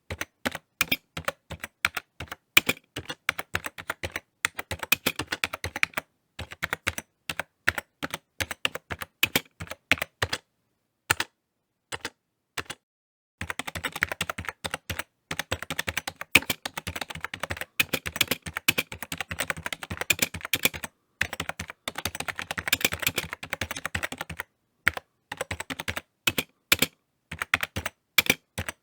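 Typing on a computer keyboard: irregular runs of key clicks. The typing stops for about three seconds, with only a couple of stray keystrokes, then resumes as a long, fast, dense stretch and slows to scattered keystrokes near the end.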